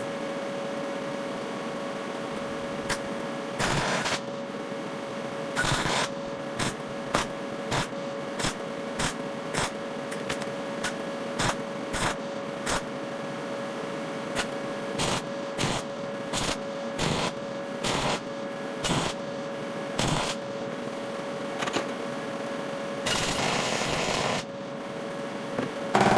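Welding arc crackling in a series of short tack-weld bursts, about twenty in all, with one longer bead of about a second and a half near the end, over a steady hum.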